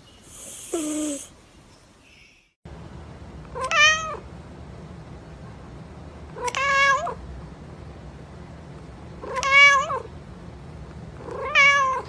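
A cat meowing four times, about every two and a half to three seconds, each meow rising and then falling in pitch. A shorter call falling in pitch comes about a second in.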